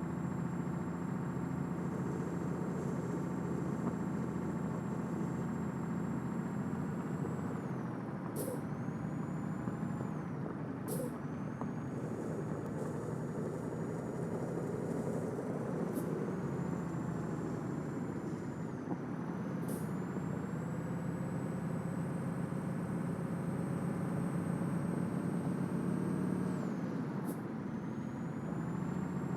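Scania truck's diesel engine pulling steadily, with a high turbo whistle. Four or five times the engine note dips and the whistle drops away and climbs back, as at gear changes, most of them with a short hiss of air.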